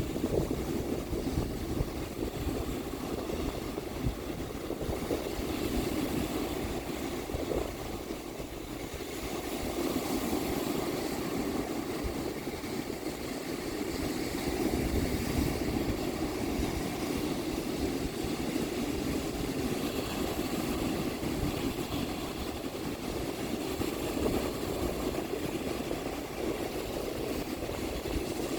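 Ocean surf rolling onto the beach in strong wind, a steady rush with a low rumble from wind buffeting the microphone, swelling and easing slowly as the waves come in.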